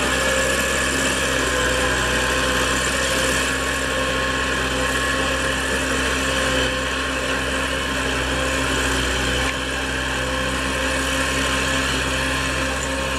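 Small tractor engine running steadily, an even hum with no change in speed.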